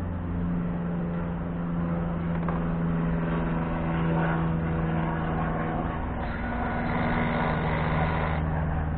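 A vehicle engine idling with a steady hum. About six seconds in, a brighter, noisier sound joins it for about two seconds.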